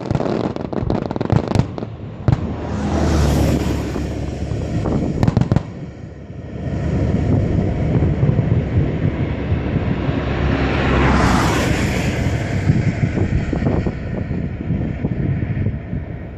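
Aerial fireworks display: sharp bangs of bursting shells over a continuous booming rumble, with a loud hissing swell near the start and another about two-thirds through.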